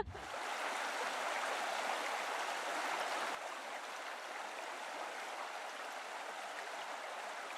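Stream water running, a steady even rush that becomes slightly quieter about three seconds in.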